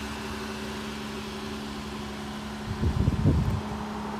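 2018 Jeep Wrangler JL idling, a steady even hum. About three seconds in, a short burst of low thumps stands out louder than the hum.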